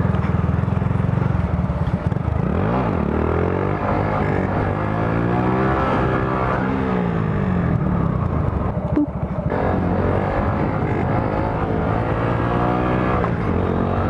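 Honda Grom motorcycle engine running while ridden. Its pitch rises and falls several times as the throttle is opened and closed.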